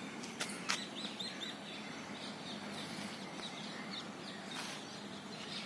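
Birds chirping: many quick, high chirps repeating over a steady outdoor background, with a couple of short clicks in the first second.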